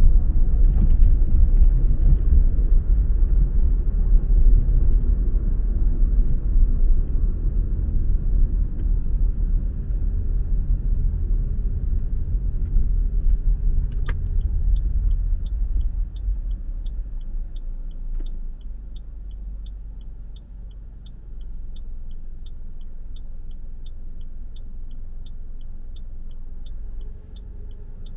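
Car driving with a low road and engine rumble that eases off past the middle as it slows. Then a click and a steady ticking about twice a second, the turn-signal indicator.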